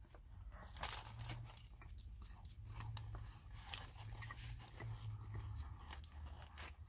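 A person biting into and chewing a crispy fried chicken and waffle sandwich, with faint crunching and wet mouth clicks; the sharpest crunch comes just under a second in.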